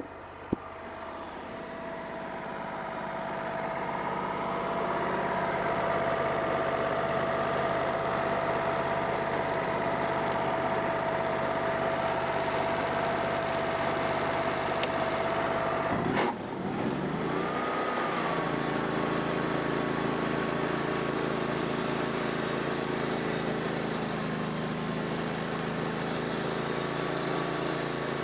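Wood-Mizer band sawmill running steadily with a droning machine tone. The sound builds over the first few seconds. About halfway through a brief clunk interrupts it, the pitch shifts, and it then settles into a new steady drone.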